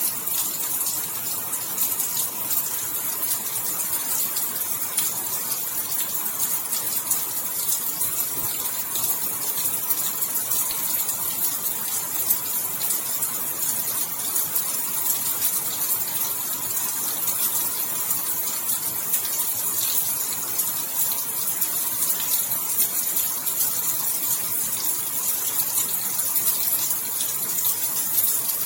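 Steady rainfall, a continuous hiss of falling rain with fine crackling patter of drops.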